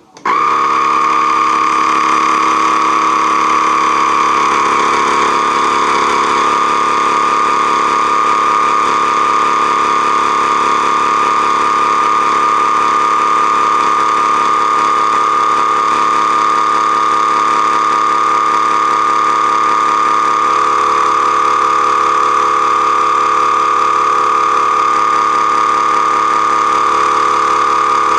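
Profi Cook vacuum sealer's pump switching on abruptly and running steadily with a high whine as it draws the air out of the bag.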